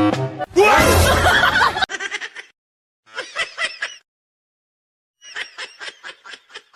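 Music stops, and a loud burst of noise follows at once. Then come several runs of quick, high-pitched giggling, with pauses between them.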